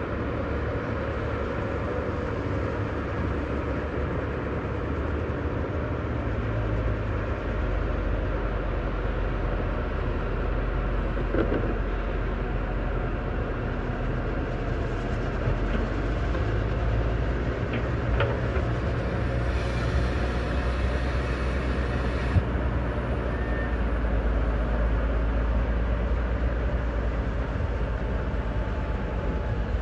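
Heavy diesel machinery, a dump truck and a crawler bulldozer, running with a steady low rumble that grows louder about seven seconds in. A few sharp knocks stand out over it.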